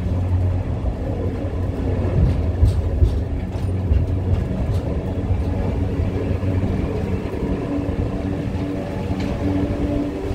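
Passenger train rolling along the track: a steady low rumble with a constant hum and a few light clicks.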